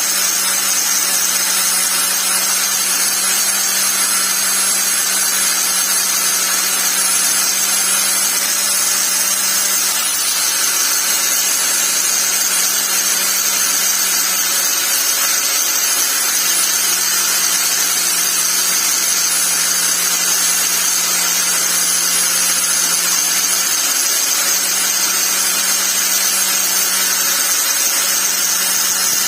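Angle grinder running continuously under load, a dense grinding noise over a constant low hum and a high whine.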